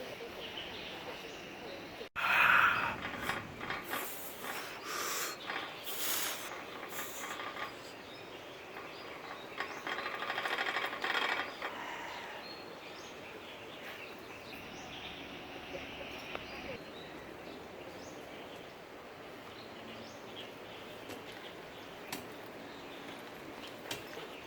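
Outdoor ambience with small bird chirps over a steady background hiss. A loud sudden sound comes about two seconds in, and a brief rapid buzzing about ten seconds in.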